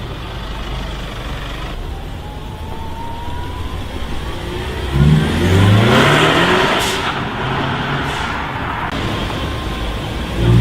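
A car engine accelerating hard, its revs climbing sharply about halfway through, over steady street traffic noise.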